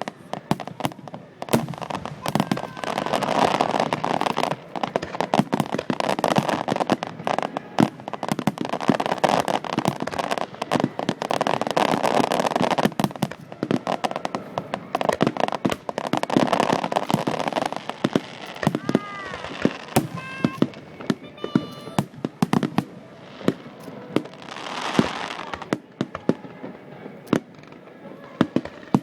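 Fireworks and firecrackers going off in a dense, continuous barrage of bangs and crackling. A few whistling tones rise and fall a little after the middle.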